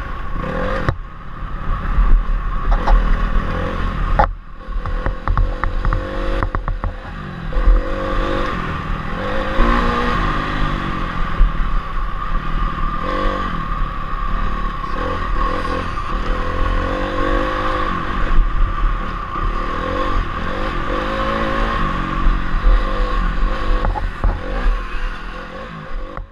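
Honda CRF250R's four-stroke single-cylinder engine being ridden hard on a motocross track, its revs climbing and dropping again and again through throttle and gear changes, with clattering knocks from the bike over the bumps.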